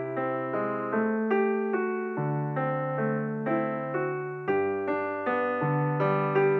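Background music: a keyboard with a piano sound playing a gentle melody, a new note every half-second or so over held low notes.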